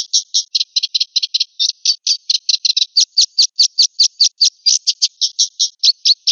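Black-winged myna (jalak putih) calling in a rapid, unbroken series of short high notes, about six or seven a second.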